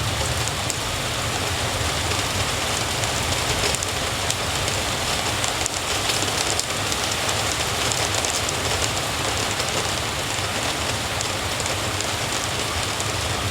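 Steady rain falling, a continuous hiss with fine patter of drops. A low rumble underneath fades away in the first second or two.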